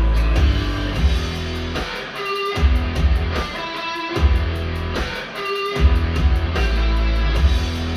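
Guitar-led music with a bass line and a steady beat, played back through a pair of KEF LSX wireless speakers. The bass drops out briefly about every second and a half.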